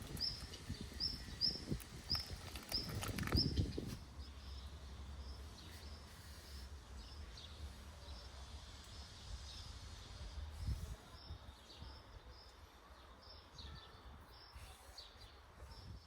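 A small bird calling with a short high chirp, repeated about two or three times a second and fading to fainter chirps after the first few seconds, over outdoor background noise. Low rumbling and a few dull thumps come in the first few seconds.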